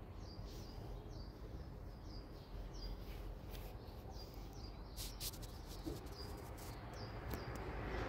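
A small bird chirping over and over, a short high chirp about once a second, over steady low outdoor background noise. A few brief clicks or rustles come about five seconds in.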